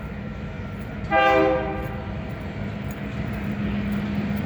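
Train rumbling steadily, with one short blast of its multi-tone horn about a second in.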